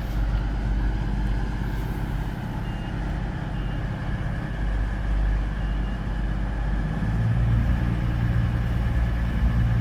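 Class 220 Voyager diesel multiple unit departing, its underfloor diesel engines running under power as a steady low rumble that grows louder about seven seconds in.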